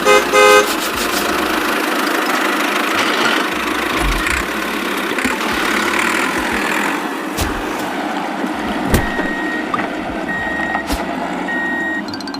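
Vehicle horn blasts twice right at the start, then a steady engine running sound. In the last few seconds it is joined by about four short high beeps, roughly a second apart, like a reversing alarm.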